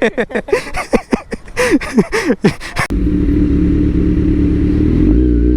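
A motorcycle engine starts abruptly about halfway through, idling with a steady, loud low note. Near the end there is a short wobble in pitch, like a light blip of the throttle.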